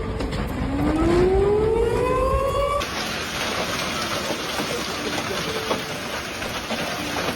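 A warning siren winding up, its pitch rising steadily for about two seconds over a low rumble. About three seconds in it cuts off abruptly, replaced by a steady, loud rushing storm noise.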